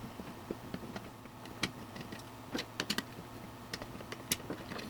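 Screws being taken out of computer case fans: scattered light clicks and taps of metal and plastic, irregularly spaced, over a faint steady hum.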